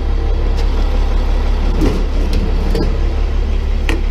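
Tow truck engine idling steadily, with a few short knocks and clatters scattered through it.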